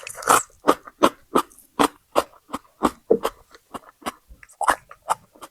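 Close-up chewing of crunchy raw vegetables, a crisp crunch about three times a second.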